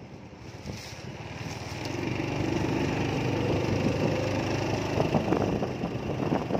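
A small engine running at a steady pitch, growing louder over the first couple of seconds and then holding steady.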